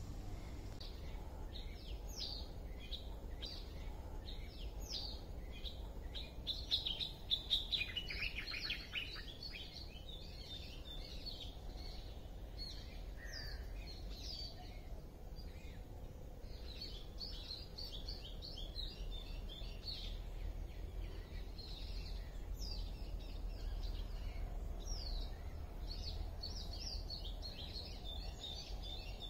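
Many small birds chirping and calling in short, quick notes, with a denser, louder flurry of calls about seven seconds in, over a low steady rumble.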